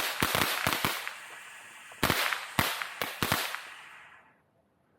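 Consumer fireworks going off: a quick string of sharp bangs and crackling in the first second, a second string of bangs about two seconds in, then the crackle dies away about four seconds in.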